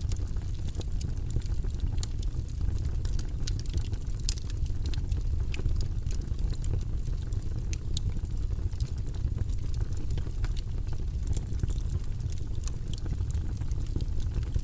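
Fireplace wood fire crackling: scattered sharp crackles over a steady low rumble.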